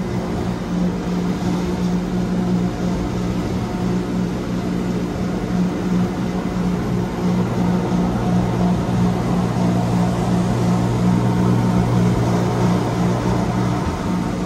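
Wengernalpbahn rack-railway train running, heard from inside the carriage: a steady low electric-motor hum under even rolling wheel-and-rail noise.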